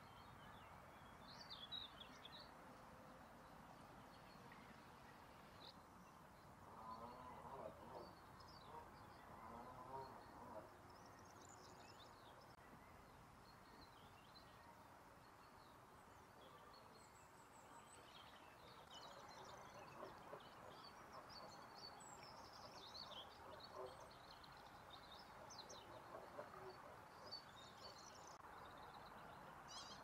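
Faint outdoor ambience with scattered short, high chirps and calls of small birds throughout, and a cluster of lower-pitched calls about seven to ten seconds in.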